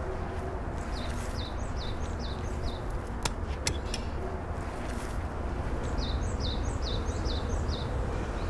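A small songbird singing twice, each phrase a quick run of five or six high notes that each slide downward, over a steady low outdoor rumble. Two sharp clicks come in the middle, between the phrases.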